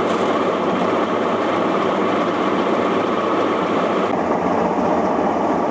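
Old top-loading washing machine running steadily and loudly, its worn bearings noisy.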